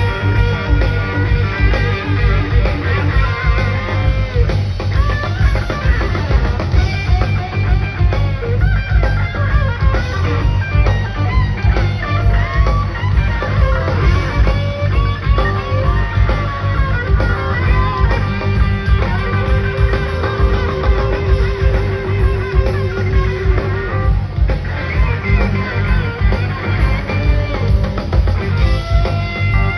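Live rock band playing an instrumental jam: an electric guitar lead with bent notes and vibrato over a steady drum and bass groove, with one long held, wavering note about two-thirds of the way through.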